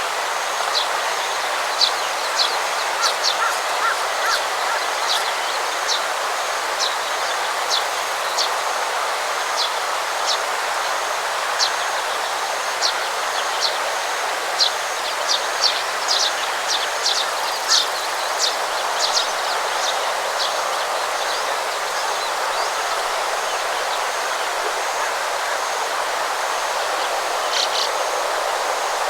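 Outdoor rice-paddy ambience: a steady rushing noise with many short, sharp high chirps scattered through roughly the first two-thirds, thinning out after that, and a faint dashed high trill throughout.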